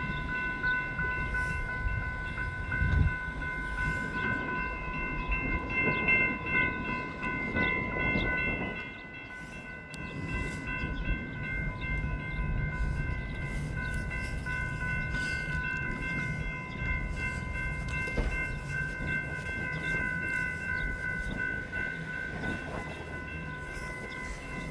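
Train at the station, with a steady high-pitched ringing of several tones held throughout over a low rumble; the rumble dips briefly about nine seconds in.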